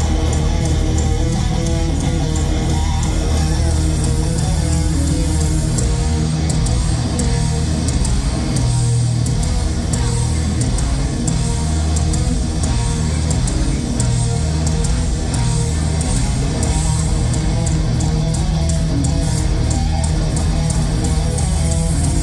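Live thrash metal band playing loud: heavily distorted electric guitars over bass guitar and fast drums.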